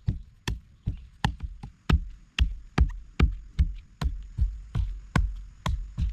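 Steady chopping blows on wood, about two and a half strikes a second, each a sharp crack with a low thud.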